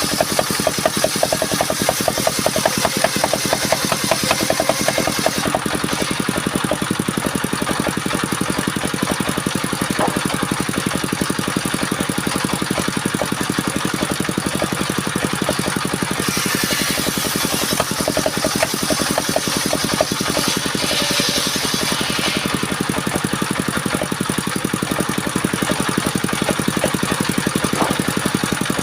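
Engine of a circular sawing machine running steadily with a fast, even pulsing beat, with a louder high-pitched hiss coming and going a few times.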